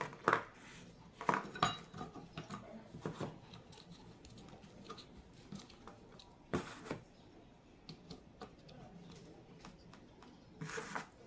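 Scattered light clinks and knocks of small metal hardware and hand tools being handled, a few sharper taps among them at irregular intervals.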